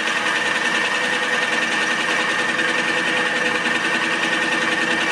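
Milling machine running with its cutter facing a metal workpiece: a steady motor hum with a steady whine, the cutter just touching at the back of its pass.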